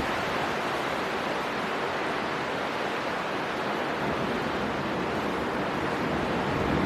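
Storm wind and surf making a steady, even rushing noise, swelling slightly near the end.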